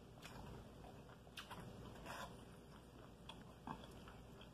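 Faint chewing and mouth sounds of someone eating with chopsticks, with a few soft, scattered clicks and smacks.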